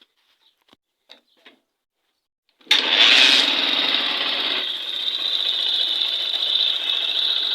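Freshly rebuilt Honda Shine single-cylinder four-stroke motorcycle engine running, smooth as butter. After a couple of seconds of near silence with faint clicks, it comes in suddenly, is louder for about two seconds, then settles to a steady idle.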